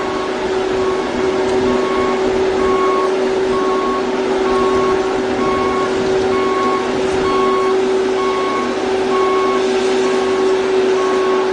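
Heavy machinery running with a steady drone, while a reversing alarm beeps about every 0.7 seconds.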